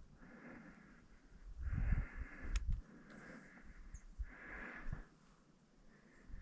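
A person breathing hard and rhythmically while walking, each breath a short hiss about once a second, with a few low thumps around two seconds in.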